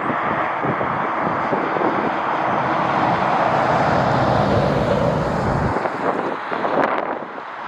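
Jet airliner engine noise, a steady rushing sound, with wind buffeting the microphone. The low rumble drops away about six seconds in, leaving the higher rush.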